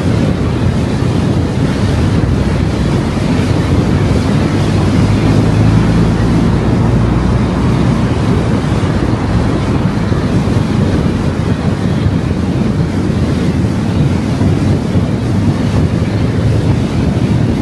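A car driving on a road, a steady rumble of tyre and road noise with wind and a low engine hum.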